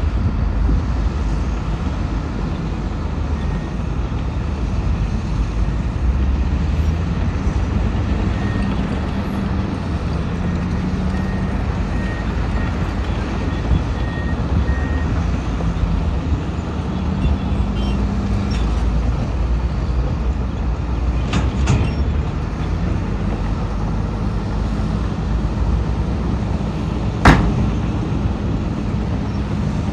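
Heavy diesel earthmoving machinery running at work, with a deep engine drone whose note rises and falls. There are a few clicks partway through and one sharp bang near the end.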